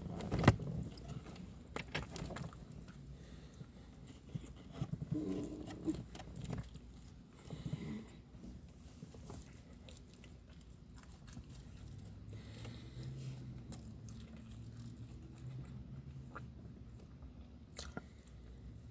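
A person biting and chewing food close to the microphone, with a few sharp crunchy clicks in the first several seconds, the loudest about half a second in.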